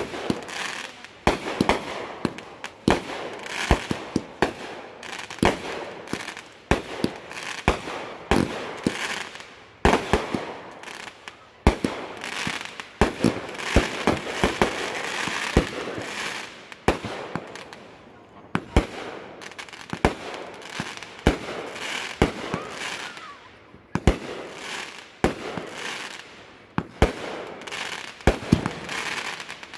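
Fireworks display: aerial shells launching and bursting overhead in a steady run of sharp bangs, one or two a second. The bangs come thickest in the middle, with brief lulls after it.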